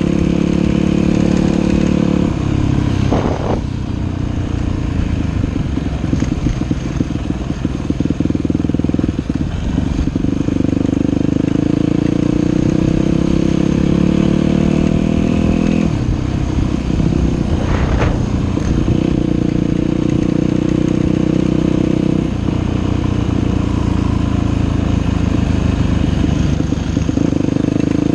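Dirt bike engine running under way, its pitch stepping and rising as the throttle and gears change. Two sharp knocks cut through it, one about three seconds in and one about eighteen seconds in.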